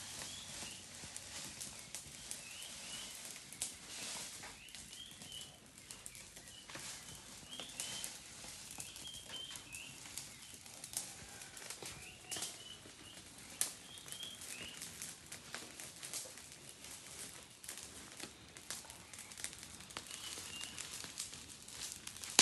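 Small birds chirping with short, repeated calls, over scattered light clicks and rustles.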